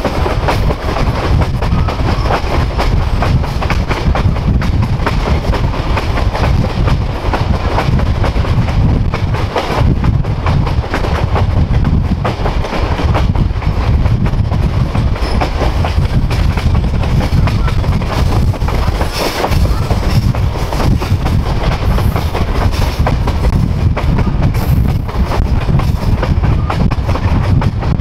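Passenger train heard from on board while moving: a steady loud rumble of the coach's wheels on the rails with a clickety-clack of wheels passing over rail joints.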